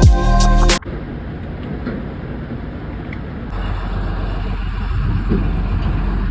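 Hip-hop music with deep gliding bass cuts off under a second in, giving way to the steady rumble of a semi truck on the road, engine and road noise, which grows a little louder about halfway through.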